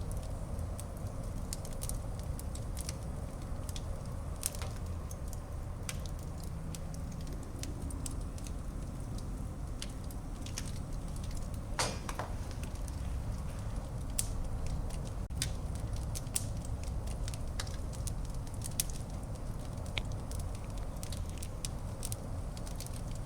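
Fire burning in a fireplace: a steady low rumble of flames with irregular crackles and small pops throughout, and one louder pop about twelve seconds in.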